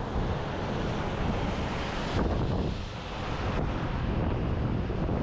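Wind buffeting the camera microphone in a snowstorm: a dense, gusting rush of noise, heaviest in the low end.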